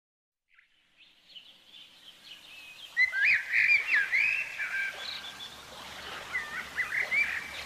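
Birds chirping and warbling over a faint outdoor ambience that fades in after about a second of silence; the calls get clearly louder about three seconds in.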